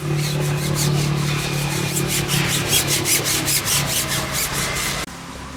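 Brush scrubbing hard and fast, about six strokes a second, over a steady low hum. It cuts off suddenly about five seconds in.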